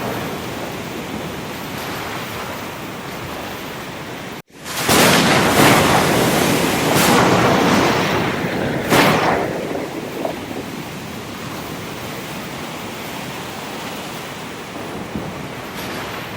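Ocean surf: a steady wash of waves, broken by a momentary gap about four seconds in, after which several louder waves crash over the next few seconds before it settles back to a steady wash.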